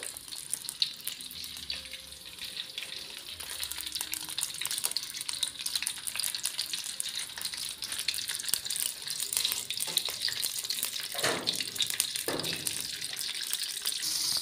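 Sliced chilies sizzling and crackling in hot oil in a wok, stirred with a wooden spatula, with a couple of louder stirring strokes near the end.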